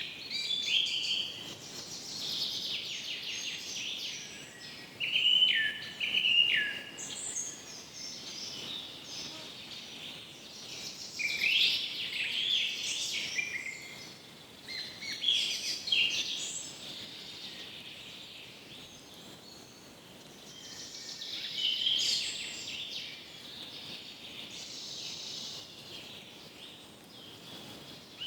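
Birds singing in a forest: many short chirps and whistled phrases, some with falling pitch, following one another over a faint steady background hiss.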